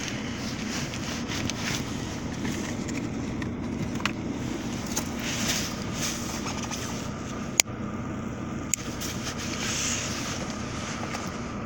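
Steady hum of an idling car engine, with one sharp click about seven and a half seconds in and a fainter click about a second later.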